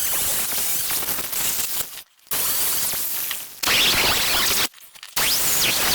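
Pressurised cleaning spray hissing in three bursts, each starting and stopping abruptly, as the aluminum wheel is cleaned before welding. The middle burst gets louder partway through.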